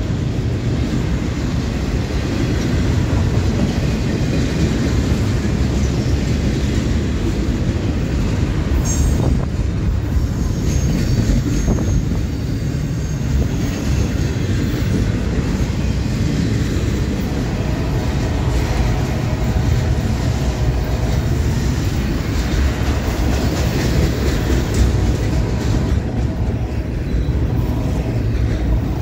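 Double-stack container train's loaded well cars rolling past: a steady, loud rumble of steel wheels on rail. A few brief high wheel squeals come about nine to eleven seconds in.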